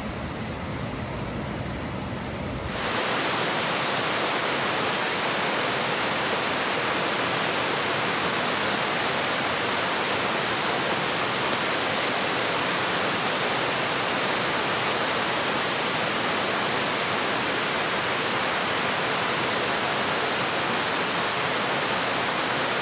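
Steady heavy rain, an even unbroken hiss. It cuts in abruptly about three seconds in, replacing a quieter, lower rumbling noise.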